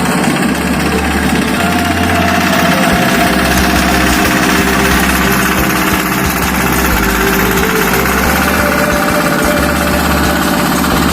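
An engine running steadily with an even, pulsing low throb.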